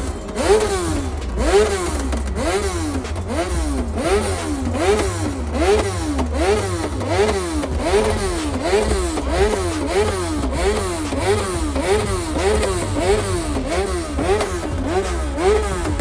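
A car or motorcycle engine revved over and over in quick throttle blips, its pitch climbing and dropping in a steady cycle about one and a half times a second, over a constant deep rumble.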